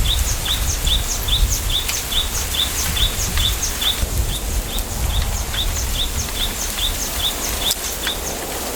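A small bird repeating one short, high chirp several times a second, pausing briefly near the middle, over a steady low wind rumble in a bamboo grove.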